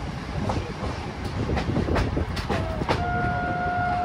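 Train rolling in, its wheels clacking over rail joints with a low rumble, then a steady single-pitched horn blast starting about three seconds in.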